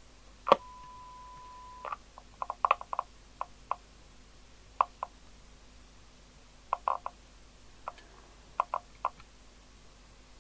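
Sharp click followed by a steady single-pitched beep lasting just over a second, then a string of short irregular clicks from bench electronic test equipment and its controls being operated.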